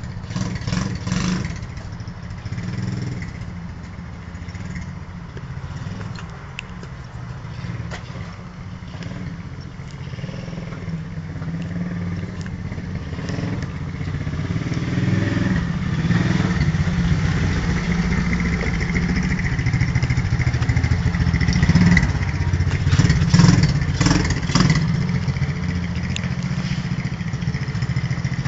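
Small single-cylinder four-stroke pit bike engine running under way. It grows gradually louder, with a few short, sharp louder bursts near the end.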